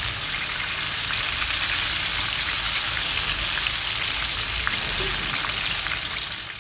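Flour-breaded chicken wings deep-frying in hot oil in a wok: a steady sizzling hiss with scattered small crackles, fading out near the end.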